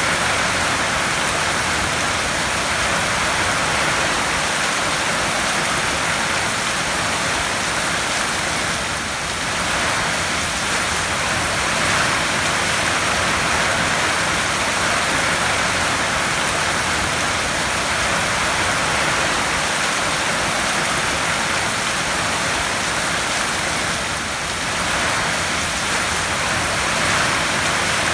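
Heavy rain drumming steadily on a tin roof, a dense even hiss with no single drops standing out. The level eases slightly twice, near a third of the way in and again near the end.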